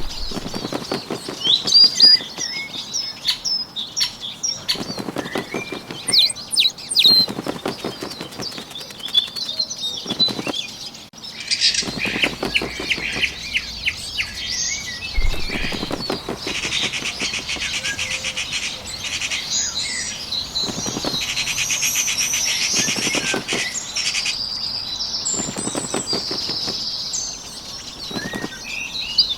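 Bird wing-flapping sound effects, short flutters repeating every couple of seconds, over high chirping birdsong; a rapid high trill fills the middle of the stretch.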